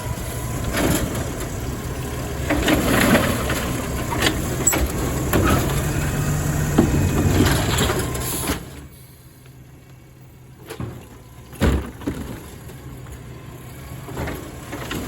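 Garbage truck's engine running with rattling and clattering over it; about two-thirds of the way through the noise drops off sharply, followed by two sharp bangs.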